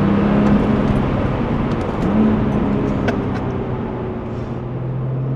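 Porsche 996 Turbo's twin-turbocharged flat-six running while the car is driven, its engine note steady, sweeping up briefly about two seconds in, then dropping to a lower pitch near the end as the revs fall.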